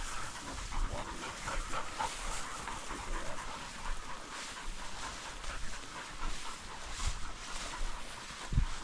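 A hunting dog working close by, its breathing and movement heard over scratchy outdoor noise, with a short thump near the end.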